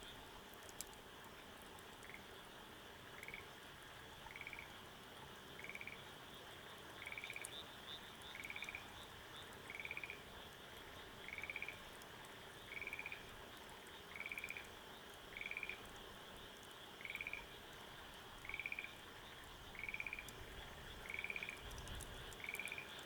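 A frog calling over and over: about sixteen short, pulsed calls, one roughly every second and a half, starting about two seconds in. A steady high hum lies beneath them.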